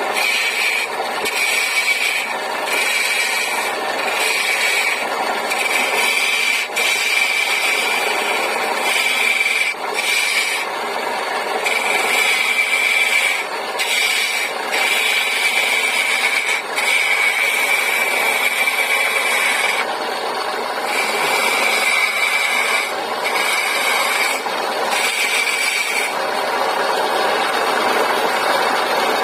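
Wood lathe running while a turning tool cuts the spinning wood in short, repeated passes. A high, steady tone stops and starts every second or two over a continuous rushing noise.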